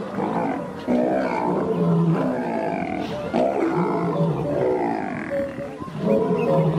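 A pride of lions growling and snarling repeatedly while attacking a Cape buffalo, in rough calls that overlap one another. In the last second and a half a short note repeats a few times at an even pace.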